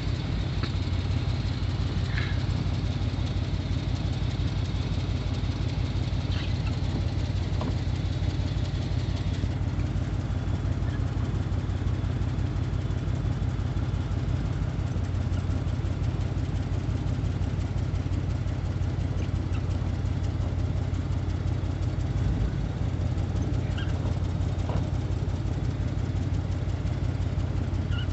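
A vehicle engine idling steadily, a low, even hum, with a faint high whine that stops about a third of the way in.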